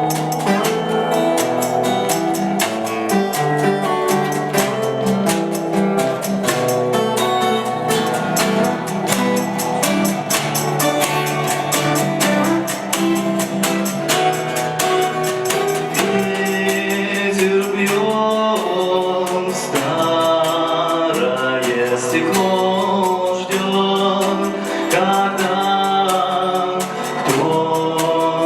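Live acoustic band playing a song: a strummed rhythm guitar, a lead guitar and hand percussion keep a steady beat, and a man starts singing in Russian about halfway through.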